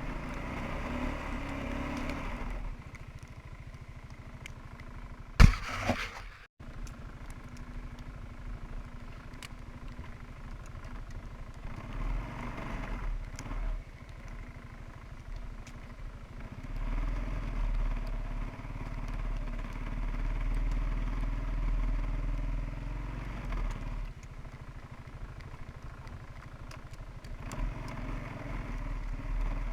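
Suzuki Quadrunner 300 ATV's single-cylinder four-stroke engine running under load in deep snow, the throttle opening and easing off so its note swells and falls, strongest for several seconds past the middle. A single sharp thump about five seconds in.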